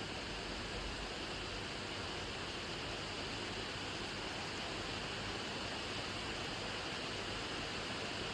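Steady rain: an even, unchanging hiss of many drops.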